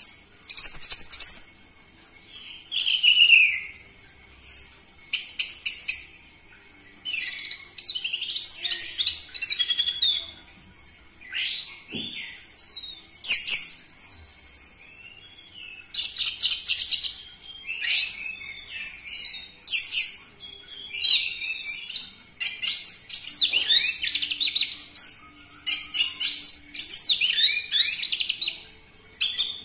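Orange-headed thrush singing: a fast, varied run of loud chirping and whistled phrases, each a second or two long with brief pauses between.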